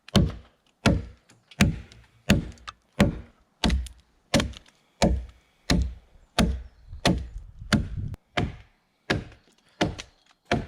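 A hand tool striking a wooden log in a steady rhythm: about sixteen evenly spaced blows, roughly one every 0.7 seconds, each a sharp knock with a short low thud.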